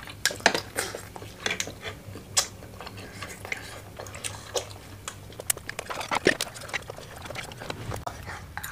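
Two people eating spicy fried noodles close to the microphone: a scatter of short wet slurps, lip smacks and chewing clicks.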